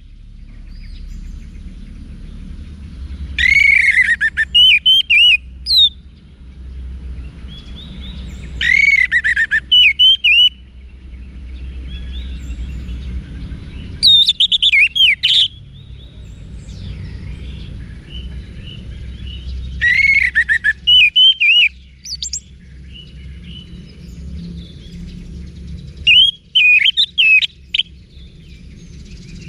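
Orange-headed thrush (anis merah) singing: loud, rich whistled phrases with rapid pitch glides, delivered in five bursts about every five to six seconds, over a steady low hum.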